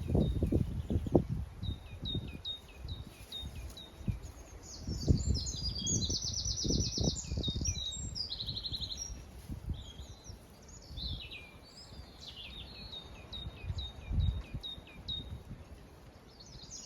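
Several wild birds singing: a run of short, quickly repeated falling chirps, then rapid trills in the middle, then more mixed song. Bursts of low rumble, loudest at the start, in the middle and once more near the end, run beneath the song.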